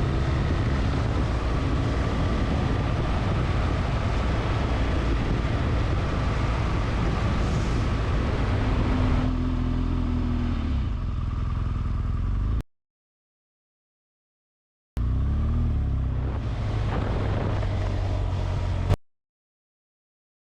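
Motorcycle riding along at speed, with engine and road noise under a heavy rush of wind on the microphone. The sound drops out to complete silence for about two seconds past the middle, and again near the end.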